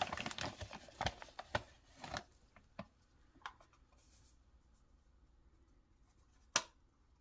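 Dry buttermilk pancake mix being scooped into a mixing bowl: a handful of soft scrapes and taps in the first three seconds, then quiet, with one sharper tap near the end.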